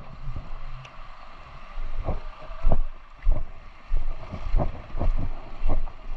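Irregular knocks and thumps, about one or two a second, over a steady rushing noise with wind buffeting the microphone.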